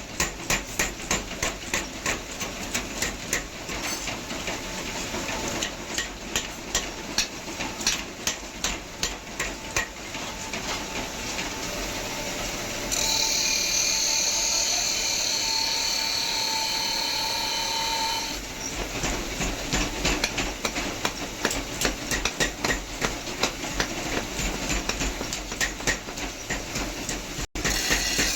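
Hammer blows striking iron on an anvil in a quick, steady rhythm of about two blows a second. The hammering stops for about five seconds in the middle, where there is a steady hiss with a whining tone, and then starts again.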